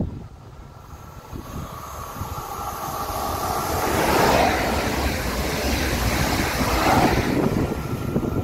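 An SNCF Regio 2N electric double-deck multiple unit passing close by on the near track. Its rumble and rushing hiss build up over the first few seconds, stay loud for about three seconds as it goes past, then start to fade near the end.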